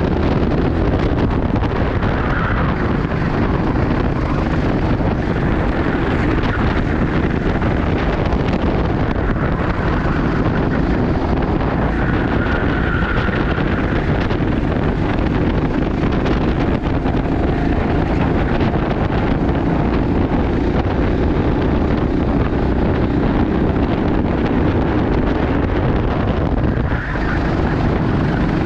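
Kart engine running at speed under heavy wind rush on the microphone, a steady loud roar with the engine note shifting slightly now and then.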